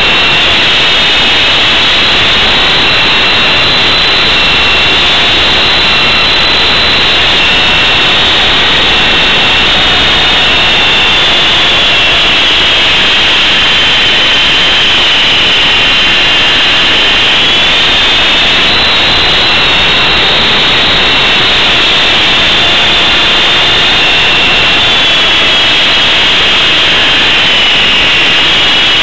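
Esky Big Lama coaxial RC helicopter in flight, its two brushless motors giving a steady high whine over the rushing rotor noise. The whine's pitch drifts a little up and down and dips a couple of times.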